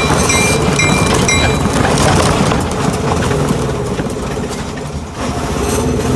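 Ride-on train running with a steady low rumble. Short high-pitched notes repeat over it during the first second and a half, then stop.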